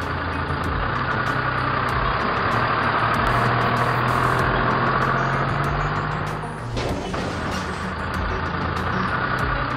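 Motor-vehicle engine sound effect running steadily, with a brief break and a slight drop in level about seven seconds in.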